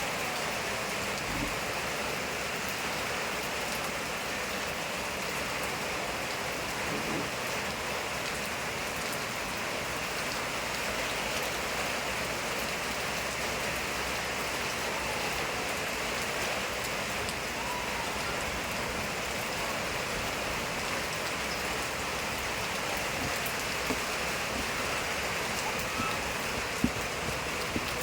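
Steady, even daytime rain falling and spattering on surfaces, with a couple of sharper drip ticks near the end.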